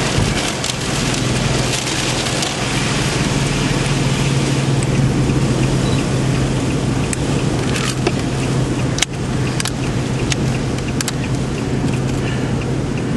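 Heavy rain and wind noise with scattered sharp taps, over a car engine's steady low hum.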